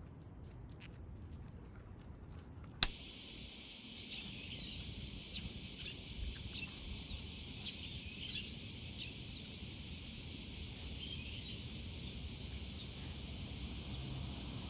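Outdoor summer ambience: a steady high insect drone with short bird chirps over it, starting after a sharp click about three seconds in; before the click only faint scattered ticks.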